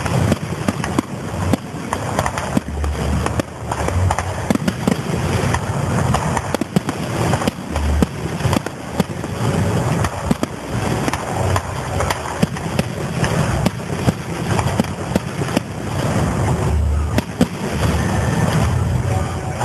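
Aerial fireworks going off continuously: a dense crackle of sharp cracks and bangs, with several deep booms of bursting shells, about 3, 4, 8 and 17 seconds in.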